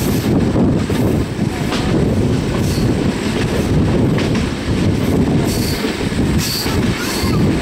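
Passenger train running on a curve, heard from a window of one of its own carriages: a steady rumble of wheels on the rails, with short high wheel squeals breaking in several times, mostly in the second half.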